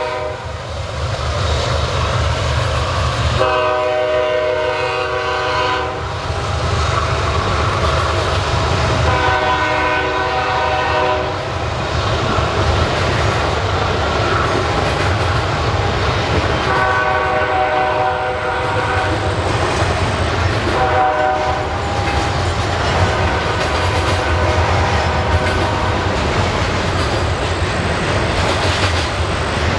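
Diesel locomotive's multi-chime air horn sounding repeatedly, several long blasts and a short one, over the steady rumble and clatter of double-stack container cars rolling past.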